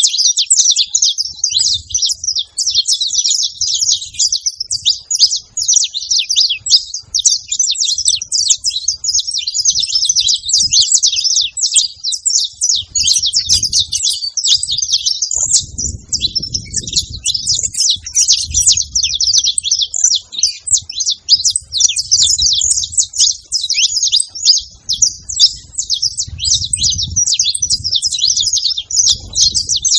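Saffron finches (canário-da-terra) singing: an unbroken stream of rapid, high chirps and trills, with a faint low rumble now and then.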